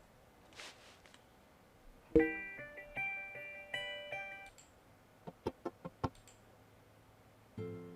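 Short phrases of plucked guitar notes, played alone with near-quiet gaps between them. A few sharp clicks come in the middle.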